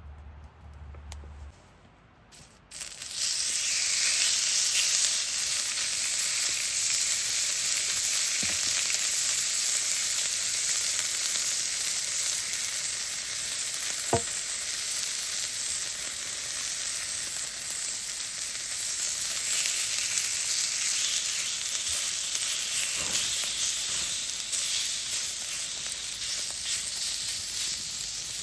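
Meat frying over a campfire: a steady sizzle that starts abruptly about three seconds in, with a few small pops.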